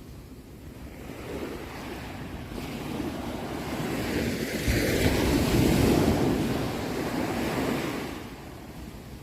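Ocean waves: one wave swells up, breaks with a rushing surge at its loudest about five to six seconds in, and washes back out.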